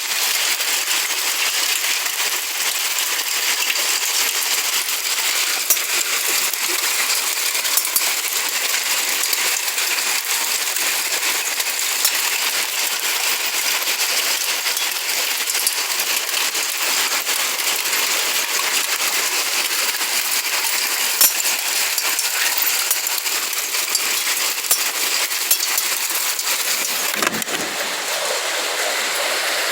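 Outdoor nature ambience: a steady high hiss sprinkled with many small clicks and ticks.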